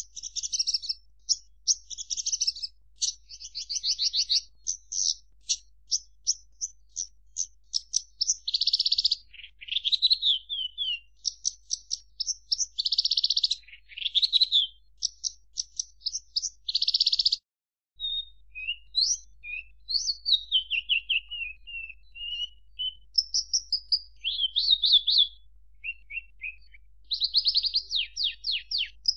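Horsfield's bush lark (branjangan) singing a long, varied song of rapid chips, fast trills and buzzy phrases, broken by a brief gap a little past halfway.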